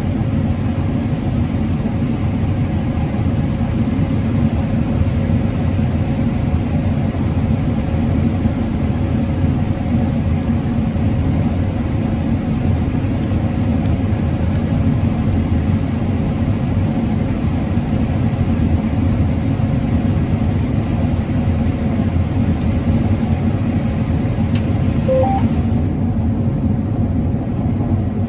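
Combine harvester running steadily while harvesting corn: a constant low drone with a steady hum, and a brief faint beep near the end.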